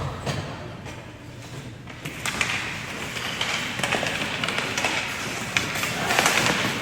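Ice hockey play in an arena: from about two seconds in, skates scrape and sticks and puck clack on the ice in a run of sharp knocks over a hiss of noise that grows louder.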